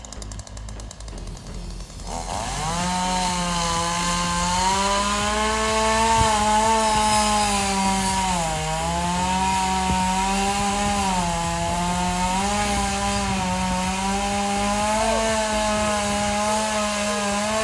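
Two-stroke chainsaw revving up about two seconds in and then running at high throttle through a cut in wood. Its pitch sags briefly a few times as the chain takes load.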